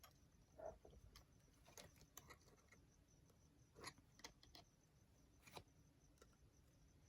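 Near silence with a few faint, scattered soft clicks and rustles from paper being handled.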